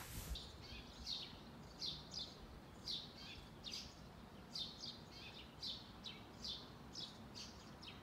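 Small birds chirping outdoors: short, high chirps that drop quickly in pitch, two or three a second, over faint background hiss.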